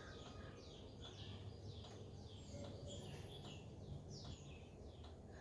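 Faint bird chirping: a run of short, high, falling chirps, about two or three a second, over a low steady hum.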